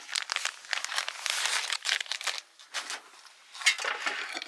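Plastic packaging crinkling and rustling as it is handled, heaviest in the first couple of seconds, with a few shorter rustles near the end.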